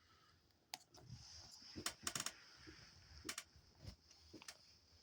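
Faint, scattered clicks and taps, about half a dozen, with a quick cluster about two seconds in, over a steady faint high hiss.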